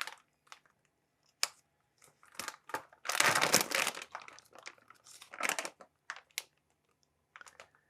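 Plastic bacon packaging crinkling and rustling in irregular bursts as raw bacon slices are pulled out, with a few sharp clicks.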